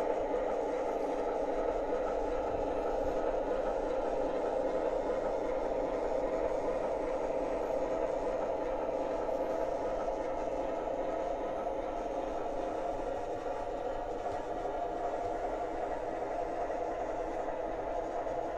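O gauge model train, an MTH Canton Railroad switcher pulling a string of cars, running steadily along three-rail track: a continuous rumble of wheels on rail mixed with motor hum.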